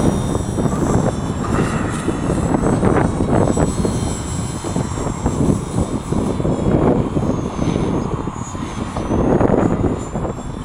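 Gaui Hurricane 255 electric RC helicopter in flight: its motor and rotors give a high whine that shifts in pitch as it is flown. Heavy wind buffets the microphone with a gusty rumble.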